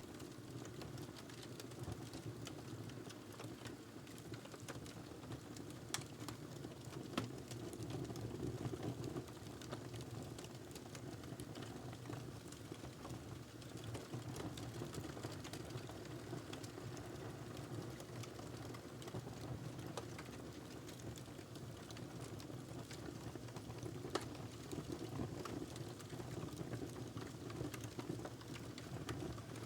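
Wood fire burning in a fireplace: a steady low rumble of the flames with irregular crackles and small pops, a few sharper snaps standing out.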